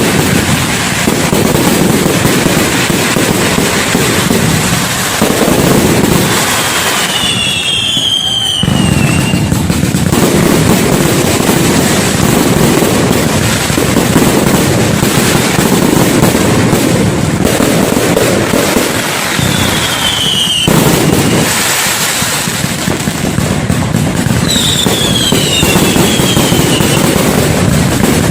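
Fireworks going off in a dense, continuous barrage of bangs and crackle, with a few high whistles falling in pitch cutting through.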